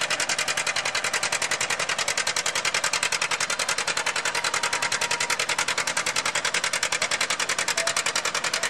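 Antique farm tractor engine running steadily under load, with an even exhaust beat of about eight pulses a second, as it pulls the weight sled.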